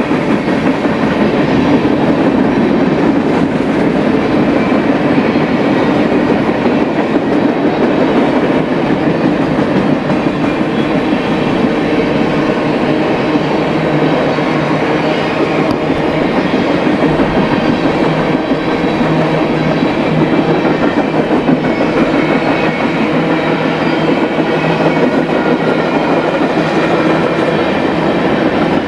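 Freight train of tank cars rolling past at speed: a steady, loud rumble of steel wheels on the rails.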